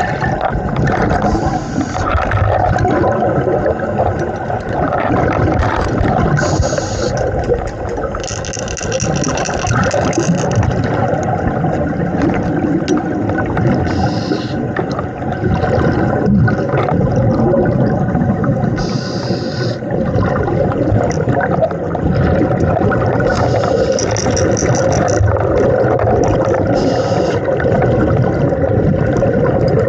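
Underwater recording of a scuba diver breathing through a regulator, with exhaust bubbles gurgling in a continuous muffled rush. Short hissing breaths come every few seconds.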